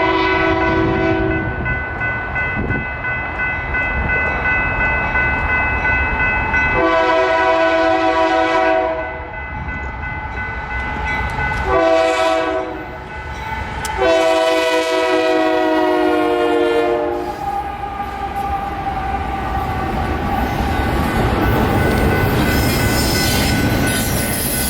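Locomotive horn sounding near the start, then a long blast, a short blast and another long blast, over the steady rumble of a passing train. The pattern fits a horn signal for a grade crossing.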